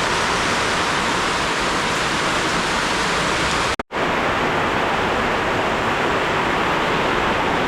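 Heavy rain pouring down steadily, a dense even hiss. It drops out for a split second just under four seconds in, then carries on a little duller.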